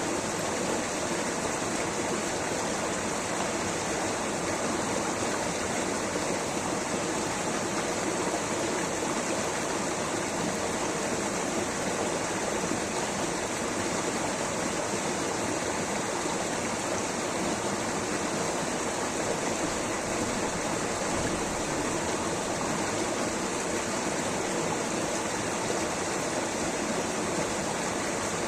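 Rushing water flowing steadily, an unbroken even hiss of a stream or waterfall.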